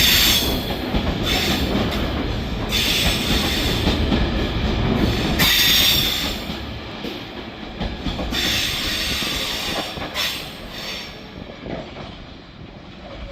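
Sand and ballast freight train rolling past: a steady low rumble of wagon wheels on rail, with a high wheel squeal coming and going every second or two. It fades toward the end as the train draws away.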